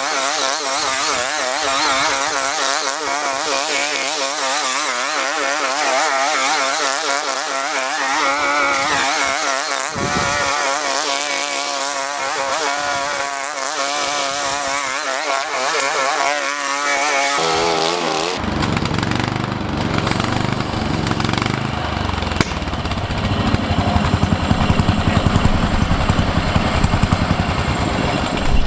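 Ride-on lawnmower's small petrol engine running under load while mowing, its pitch wavering up and down. About two-thirds of the way through the sound changes abruptly to a heavier low rumble.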